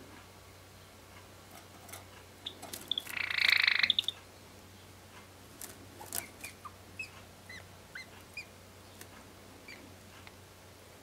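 Caged Java sparrow giving one harsh, buzzy call a little over three seconds in, then a string of short, soft chirps. Light clicks and taps are scattered through it.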